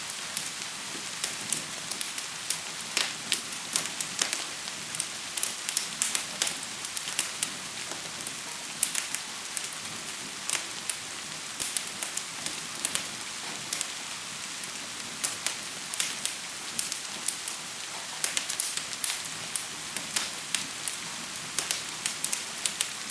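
Gentle rain falling with a steady hiss, mixed with a crackling fire giving irregular sharp pops and crackles.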